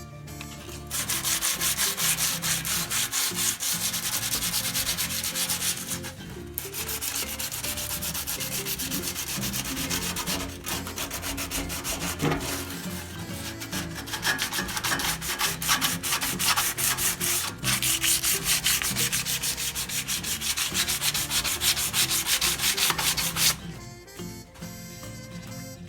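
150-grit sandpaper rasping over a motorcycle's metal gas tank, rough-sanding the peeling paint off. The sanding starts about a second in, breaks off briefly three times, and stops a couple of seconds before the end.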